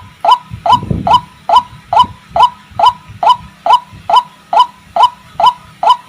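White-breasted waterhen (ruak-ruak) calling: a short note that dips in pitch, repeated over and over at an even pace of about two to three calls a second.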